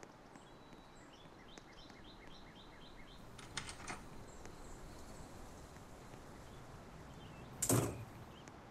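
A bird gives a quick run of about eight high chirps, followed by a few sharp clicks. Near the end comes a single loud thump, the loudest sound, over a steady low hiss.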